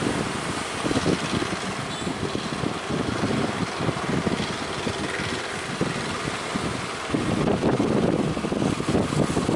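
Strong wind buffeting the microphone over the rush of surf, gusting harder about seven seconds in.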